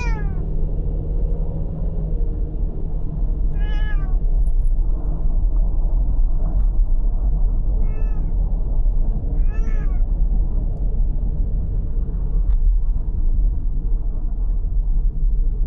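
A domestic cat meowing four times, each a short call falling in pitch, near the start, about four seconds in, then twice around eight to ten seconds. Under it runs the steady low road and engine rumble of a car's cabin while driving.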